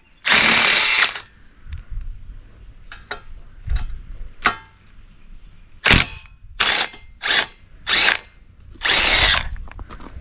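Power drill/driver spinning out the exhaust baffle bolts on a 50cc dirt bike. It runs in several short bursts: a run of about a second at the start, a few brief bursts later on, and a longer one near the end, with light clicks of the tool and parts in between.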